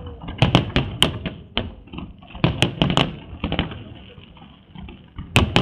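Fireworks display: a rapid run of sharp bangs from bursting aerial shells, in clusters with a brief lull a little after the middle and a quick burst of bangs near the end.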